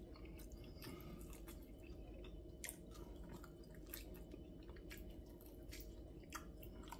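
Faint chewing on a sauced pork rib, with scattered short wet mouth clicks, over a steady low hum.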